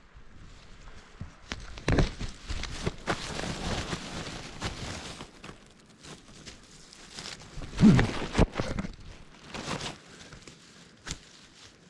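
Footsteps and rustling through wet forest floor litter, with irregular crunches and a louder knock about eight seconds in.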